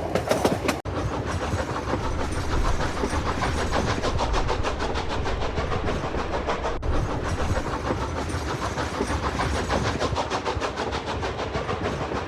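Passenger train running on the rails, heard from aboard: a fast, even clicking rhythm over a steady low rumble.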